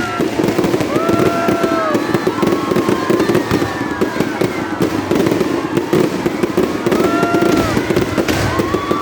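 Fireworks crackling and popping in a dense, unbroken run, with a few drawn-out voice-like calls over the top.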